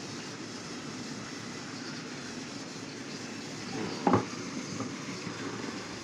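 Battery-powered Trackmaster toy train engines running steadily on plastic track, their motors and wheels making an even running noise, with one sharp knock about four seconds in.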